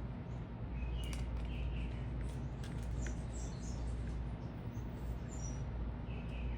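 Small birds giving short, high chirps here and there at a feeder, with a few sharp clicks, over a steady low rumble of city background noise.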